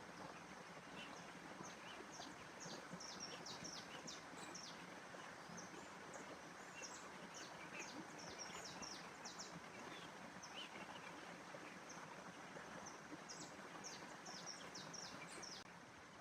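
Faint birds chirping, with quick high notes in clusters, over a steady rushing background hiss.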